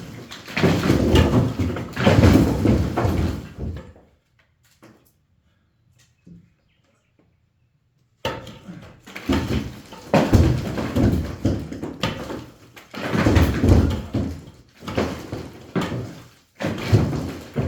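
Bricks being knocked out of a wall and rubble clattering down, in repeated noisy bursts of a second or two, with a pause of about four seconds in the middle.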